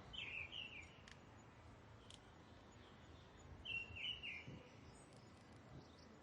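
A bird calling twice, each a short phrase of a few quick up-and-down notes, about three seconds apart, over faint outdoor background hiss.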